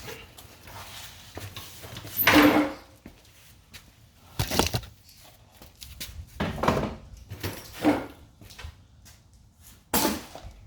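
Oil drain bucket being pulled out and moved: about six irregular knocks and scrapes with short pauses between them, the loudest a little over two seconds in.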